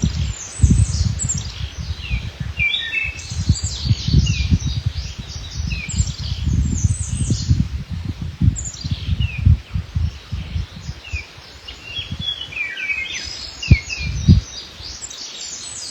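Wild songbirds chirping and singing, many short high notes that slide downward, repeated through the whole stretch. Under them runs an irregular low rumble, with two sharp low thumps near the end.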